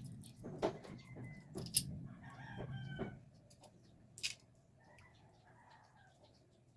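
A rooster crowing once, a single drawn-out call about two seconds in, with a few sharp clicks and knocks around it.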